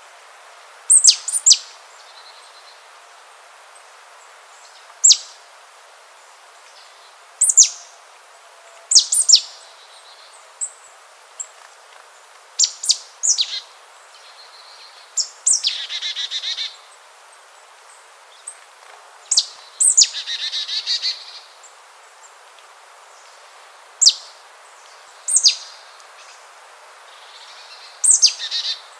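Birds calling: short, sharp, high-pitched notes that drop quickly in pitch, singly or in quick pairs every second or two, with two longer buzzy calls about midway.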